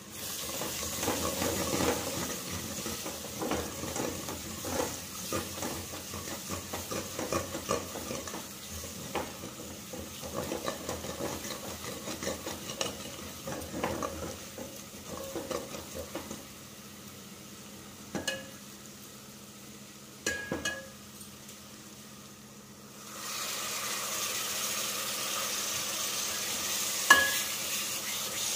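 Onion masala with red chili powder frying in oil in a steel kadai, stirred and scraped by a steel ladle, with a few sharp clinks of metal on metal. Near the end a louder, steady sizzle sets in as tomato puree goes into the hot oil.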